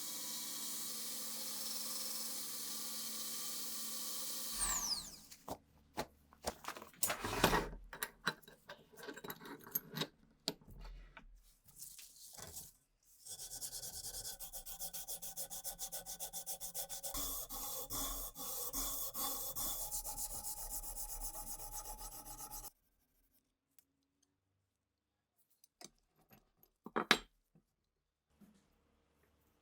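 A power tool running with a steady hiss and whine that spins down about four seconds in, then irregular hand rubbing and filing strokes, then a long stretch of even, fast rubbing that stops abruptly. A few light clicks and one sharper knock follow near the end.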